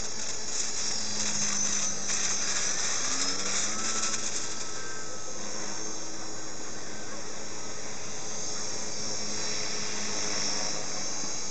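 Electric motor and propeller of a radio-controlled model aircraft whining steadily, the pitch rising briefly about three seconds in.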